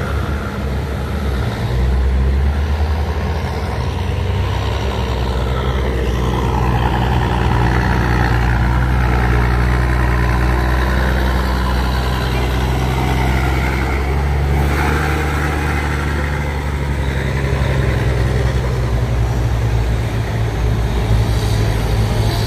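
Heavy truck's diesel engine running, a loud, deep, steady drone that shifts slightly in pitch a couple of times.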